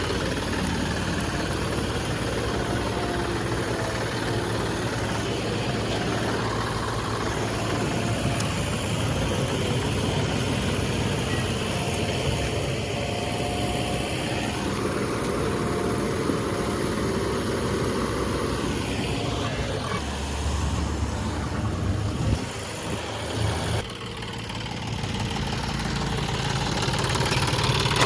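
Heavy diesel engine running steadily at low revs, its note shifting and briefly dropping about three-quarters of the way through.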